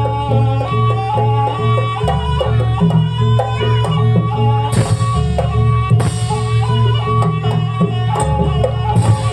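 Traditional Banyuwangi dance music played live: drums and held melodic notes over a heavy bass, with a few cymbal crashes, the clearest about five and six seconds in.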